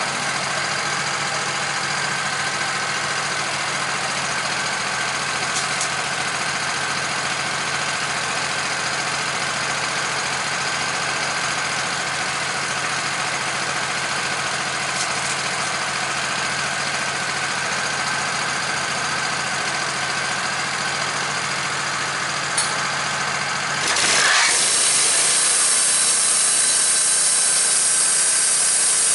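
Wood-Mizer portable sawmill running steadily with its engine at a constant speed. Near the end the sound changes suddenly to a louder, brighter rushing noise as the band blade starts sawing into the log.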